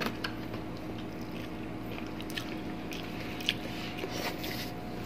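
Close-miked chewing of fried fish and rice eaten by hand, with soft wet mouth clicks and a few sharper smacks, over a steady low hum.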